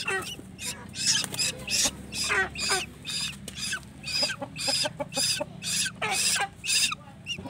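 Young tuwu birds calling over and over for food while being fed: short, high, rasping begging calls, about two a second.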